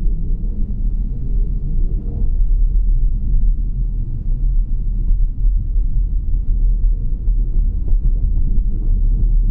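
A steady, loud low rumble with faint light ticks over it.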